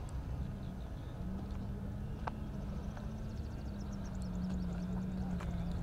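Rally pickup's engine heard from a distance, running at steady high revs as a low hum that rises and falls slightly in pitch, with a few faint clicks.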